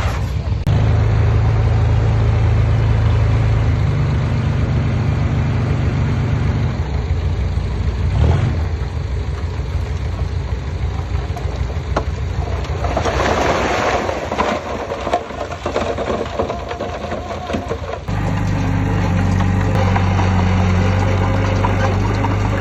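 Heavy diesel engine of earthmoving machinery running steadily, with a stretch of rougher, noisier sound a little past halfway. The engine note changes abruptly near the end.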